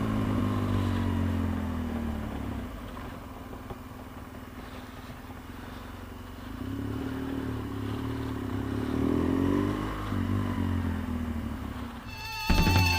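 BMW GS adventure motorcycle engine slowing down, then running low and steady as it rolls in at low speed. About six seconds in it picks up and falls away again over a few seconds. Rock music starts near the end.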